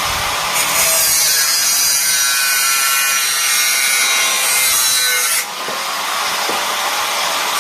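Angle grinder cutting or grinding metal: a continuous harsh grinding hiss with a high whine that wavers in pitch, easing briefly about five seconds in and then picking up again.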